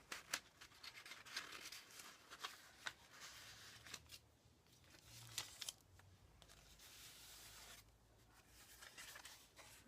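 Faint paper rustling and soft clicks as the pages and inserts of a handmade paper-and-fabric journal are handled and turned, busiest in the first few seconds and again about halfway through.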